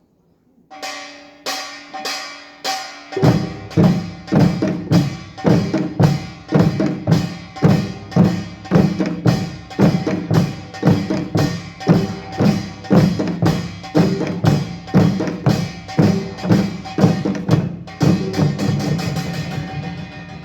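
Pungmul ensemble of Korean folk percussion playing. Sharp, bright strikes start alone, deep drum strokes join about three seconds in with a strong steady beat, and near the end the playing turns into a fast roll that fades away.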